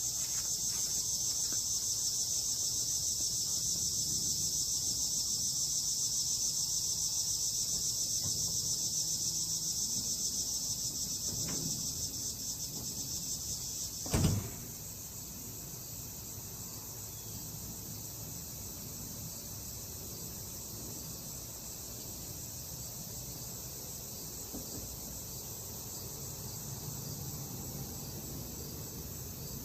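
Steady high-pitched insect chirring. About halfway through there is a single thump, after which the chirring is much quieter.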